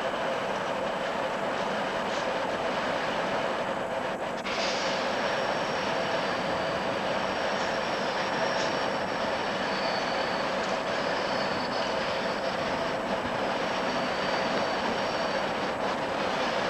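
A train running through a railway station, a steady dense rumble with a held mid-pitched tone, joined from about four and a half seconds in by faint high-pitched squeals.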